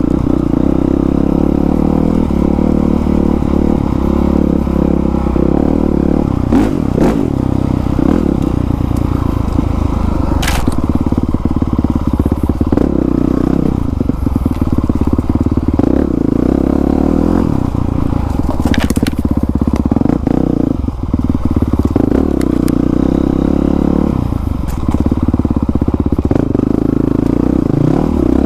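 Honda CRF450R 450cc single-cylinder four-stroke dirt bike fitted with a new exhaust, running under throttle on a trail, its engine note rising and falling as the rider works through slippery roots. Occasional knocks and scrapes from the bike and trail cut through it.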